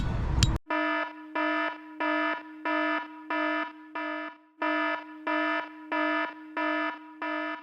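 Electronic alarm beeping: a buzzy tone at one fixed pitch, repeated about one and a half times a second.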